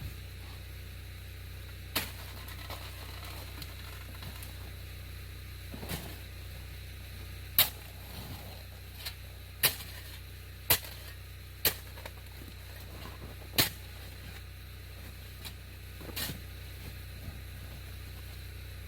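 Snow shovel striking and chopping at snow hardened by rain: about seven sharp, loud hits at uneven intervals, with lighter scrapes and knocks between, over a steady low hum.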